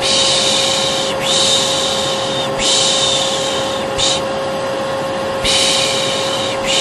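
A vacuum cleaner runs steadily with a constant whine. Over it a person makes a soothing 'shh' shushing sound, of the kind used to calm a baby, repeated in hissing breaths about a second long, around five or six of them.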